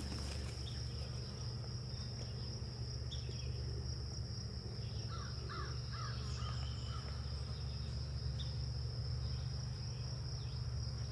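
Woodland ambience: a steady high-pitched insect drone with scattered bird calls, a flurry of them about five seconds in, over a low steady hum.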